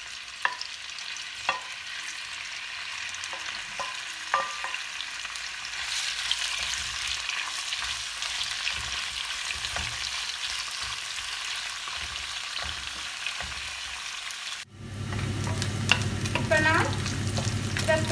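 Marinated squid rings sizzling as they fry in a hot non-stick wok and are stirred with a wooden spoon, with a few sharp clicks early on. After a brief drop near the end, a steady low hum comes in under the sizzling.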